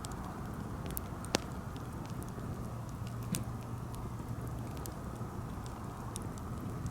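Wood campfire crackling: scattered sharp pops and snaps, the loudest about a second and a half in, over a steady low rush.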